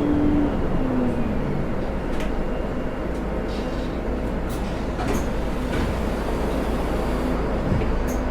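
Rail car running along the track: a steady low rumble with scattered light clicks, and a short pitched whine near the start.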